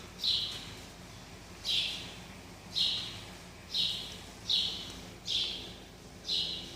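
A bird giving short, high, raspy chirps, seven of them about once a second, over a faint low steady hum.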